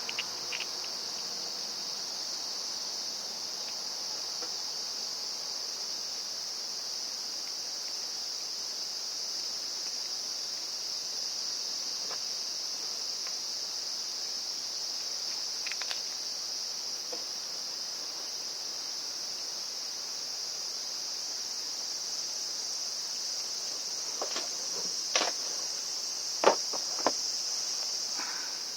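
Steady high-pitched insect chorus throughout, with a few sharp clicks and knocks near the end.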